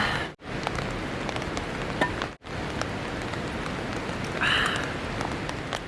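Steady rain falling, an even hiss that cuts out twice very briefly in the first few seconds. A short higher-pitched sound comes about three-quarters of the way through.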